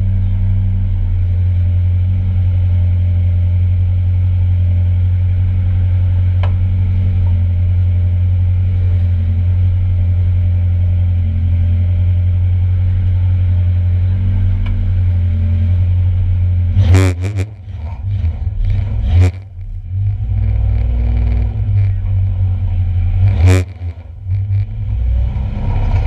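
1-litre stock car engines running at race speed under a heavy, steady low rumble. Sharp loud bangs break in about two-thirds of the way through and again near the end.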